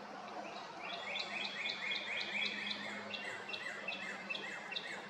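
A songbird singing a long run of repeated short notes, each sliding down in pitch, about four a second, starting about a second in.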